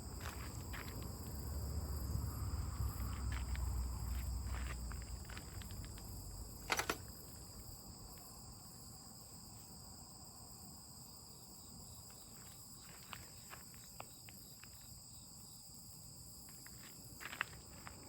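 Crickets trilling steadily in a high, layered chorus, with scattered sharp clicks and crackles, the loudest about seven seconds in. A low rumble sits under the first five seconds.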